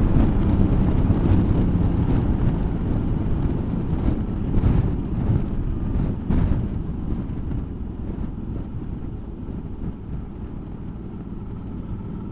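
Suzuki V-Strom motorcycle running on the road, its engine rumble mixed with wind and road noise on the camera mic, growing gradually quieter as the bike eases off.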